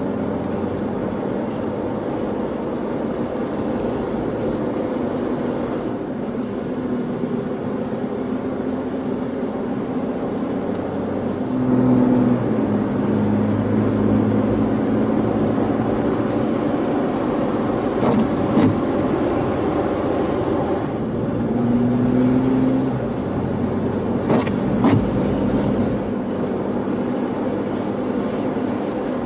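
Jeep Wrangler being driven: steady engine hum over tyre and road noise. The engine note rises and gets louder twice, about twelve seconds in and again around twenty-one seconds, with a few faint clicks along the way.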